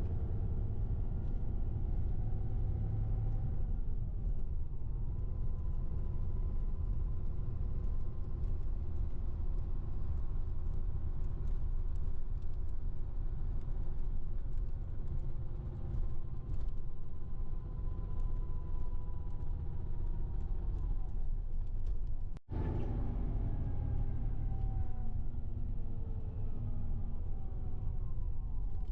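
Steady engine and road rumble inside a moving bus, with a faint engine tone that slowly rises and falls as it changes speed. The sound breaks off briefly about three quarters of the way through.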